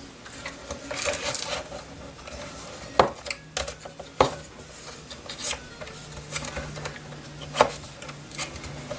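Small plastic parts and tools handled on a work surface during drone reassembly: scattered light clicks and rubbing, with three sharper clicks about three, four and seven and a half seconds in.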